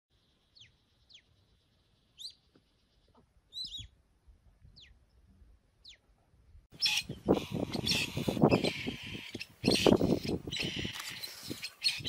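Wild birds chirping sparsely, each chirp a quick falling whistle, half a dozen over several seconds. About seven seconds in, a much louder, dense sound sets in suddenly and carries on.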